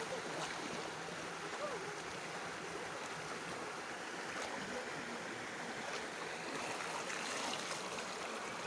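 Steady rush of water from a small waterfall and its stream.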